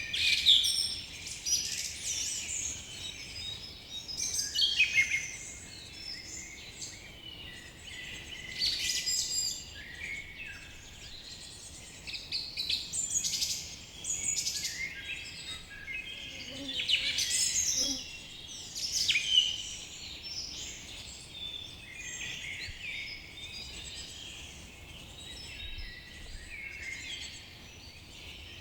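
Forest birdsong: several birds chirping and trilling at once, over a faint steady background hiss.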